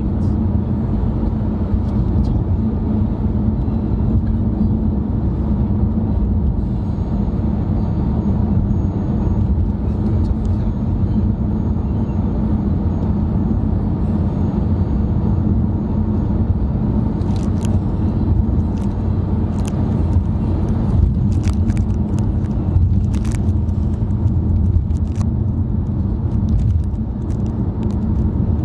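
Steady road and engine rumble inside a moving car's cabin. A few faint clicks sound in the second half.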